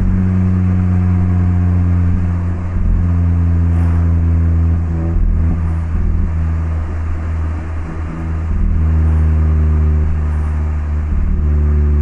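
Exhaust note of a Mazda MX-5 (ND) 1.5-litre four-cylinder through an HKS Legamax Sports aftermarket muffler, heard while driving. The engine speed shifts a few times in the middle, then holds a steady drone near the end.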